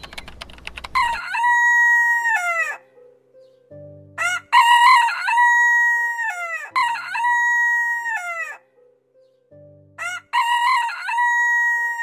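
Rooster crowing four times, each crow about two seconds long, holding a steady note and then falling away at the end. A quick rattle of clicks comes just before the first crow.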